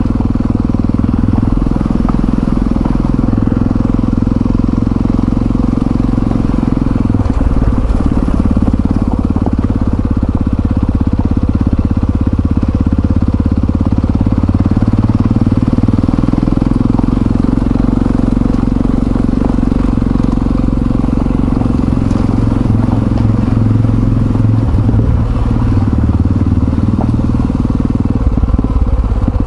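Yamaha XT660Z Ténéré's single-cylinder engine running as the motorcycle is ridden, a steady low engine note whose pitch shifts now and then with the throttle.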